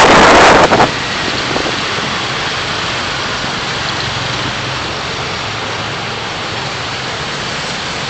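Steady driving noise of a car on the road, an even hiss of tyres and air over a low engine hum, after a loud rush of noise in the first second.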